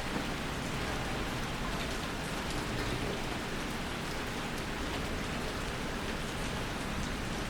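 Steady rain falling and pattering on surfaces, an even hiss with fine drop ticks.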